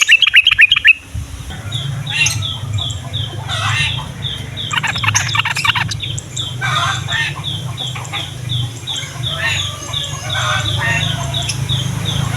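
Yellow-vented bulbuls calling: a steady run of short, high call notes about three a second, broken every second or two by bursts of rapid chattering song, over a low steady hum.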